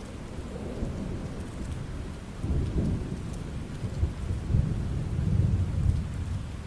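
Steady rain with low rolling thunder. The rumble swells about two and a half seconds in and again from about four to six seconds in.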